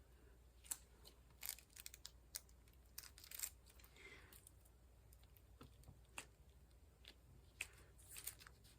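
Faint, scattered light clicks and taps of square diamond-painting drills being picked up and pressed onto the adhesive canvas.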